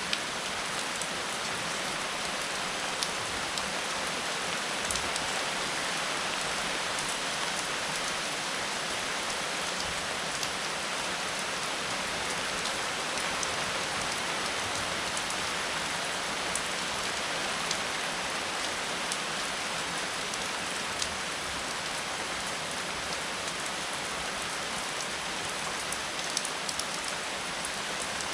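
Steady rain falling on a surface, a constant hiss with scattered sharper drop ticks.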